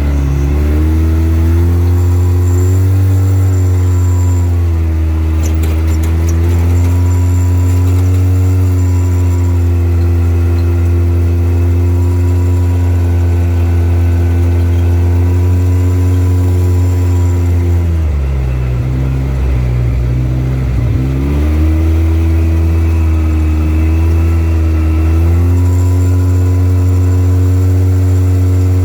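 Vehicle engine running at a steady speed under way, easing off about two-thirds of the way through and then picking back up to the same steady pitch.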